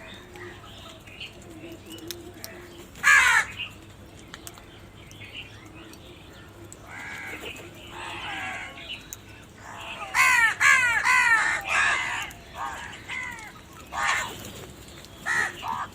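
Crows cawing: one loud harsh caw about three seconds in, softer calls a few seconds later, then a quick run of loud caws about ten seconds in and a few more near the end.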